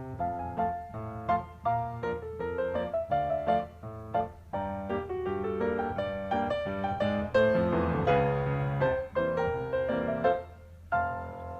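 Background piano music with quick successive notes and chords, busiest around the middle.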